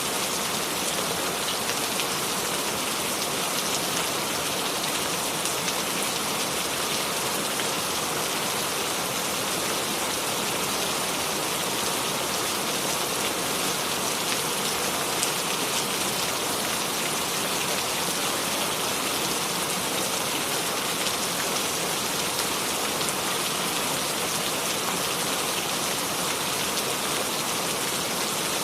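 Steady rain falling without thunder, a dense even hiss dotted with the ticks of individual drops.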